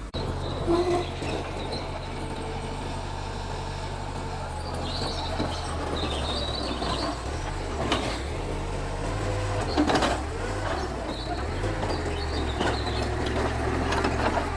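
Mitsubishi bulldozer's diesel engine running steadily, with a few sharp metallic clanks, the loudest about ten seconds in.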